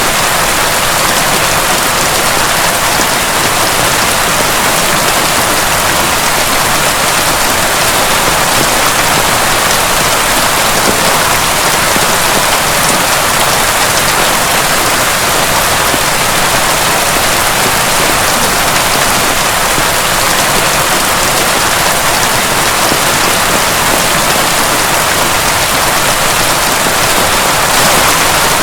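Heavy rain falling and pattering steadily on a surface, an even, dense hiss with no thunder.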